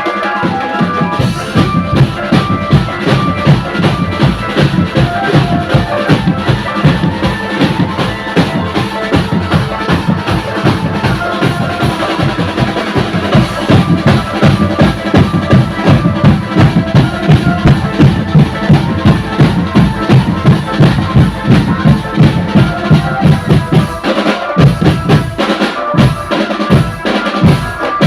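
Drum band playing a fast, steady beat on bass drums and snares with rimshots, with a melody carried over the drumming.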